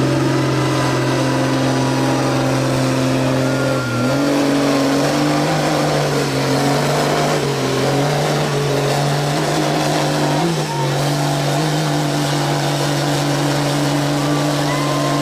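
Off-road vehicle engine running hard under steady load, its pitch stepping up about four seconds in and again around eleven seconds.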